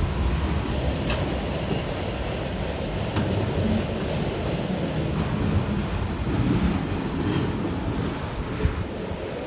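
Freight train cars, mostly autoracks, rolling past: a steady rumble of steel wheels on rail with a few faint clicks, getting a little quieter near the end as the last car goes by.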